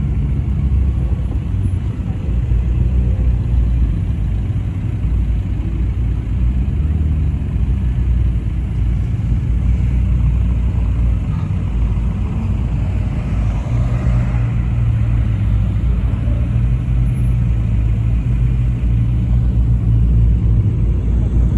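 Car engines running at low speed, a steady low rumble that lasts throughout.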